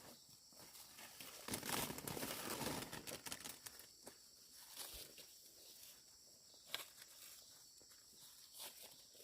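Quiet rustling and crackling of dry corn plants as ears are broken off by hand, with footsteps through the stalks and a few sharp snaps.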